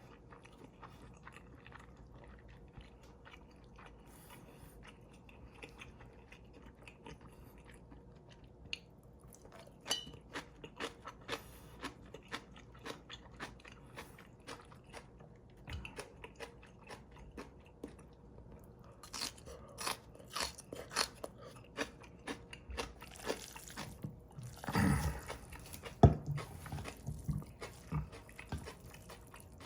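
A person chewing a mouthful of bibim noodles: a run of short mouth clicks and smacks. They are sparse at first and grow busier and louder in the second half, with a louder burst about 25 seconds in.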